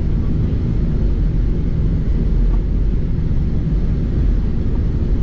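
Airplane engine and airflow noise heard inside the cockpit, a loud, steady low rumble of an aircraft under takeoff power.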